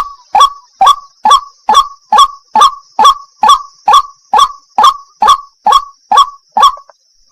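White-breasted waterhen (wak-wak) calling a long run of short 'wak' notes, about two a second, each dropping in pitch; the run stops near the end.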